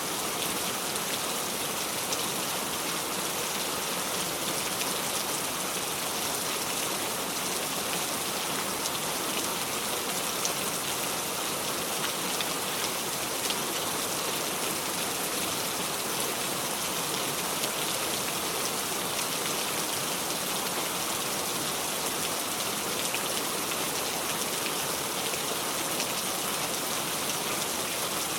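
Steady heavy rain falling on surfaces, a dense even patter of drops with no thunder.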